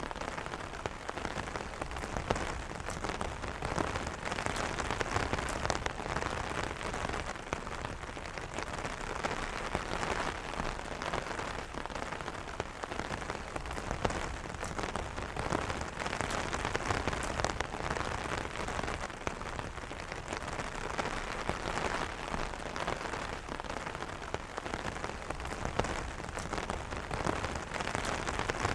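Steady rain pattering on an umbrella's fabric canopy, a dense mix of many small drop taps.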